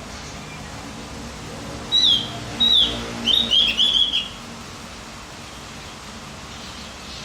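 Opior jawa (Javan grey-throated white-eye) song: a short burst of down-slurred whistled notes, two single notes followed by a quick run of about four. A faint steady low hum lies underneath.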